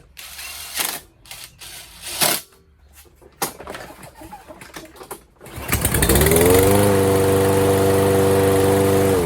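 A few knocks and short rattles as the recoil starter is refitted. About five and a half seconds in, the single-cylinder Briggs & Stratton mower engine starts on a pull of the cord, rises to speed and runs steadily and loud, then starts winding down at the very end.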